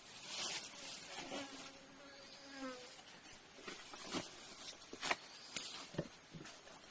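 Insects buzzing steadily, with several sharp clicks or snaps in the second half and a brief gliding pitched call a couple of seconds in.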